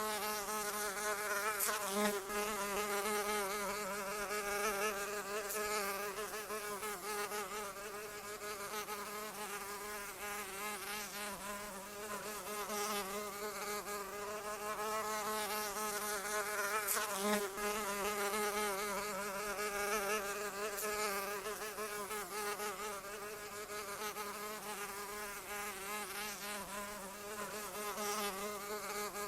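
Flying insect buzzing in a continuous hum whose pitch wavers slightly, without pause.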